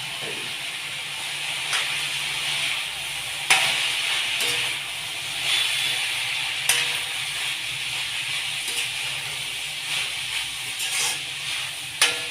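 Cooked rice and vegetables sizzling in a hot iron kadai, a steady hiss broken by a few sharp knocks of a spatula against the pan.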